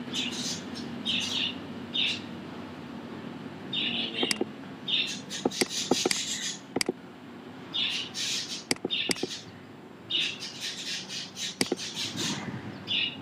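Small birds chirping in short high bursts, a call every second or so, with a few sharp computer mouse clicks in between.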